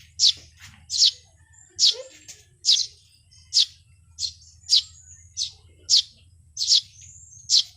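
Small birds chirping: a regular run of short, sharp, high chirps, a little more than one a second, over a faint low hum.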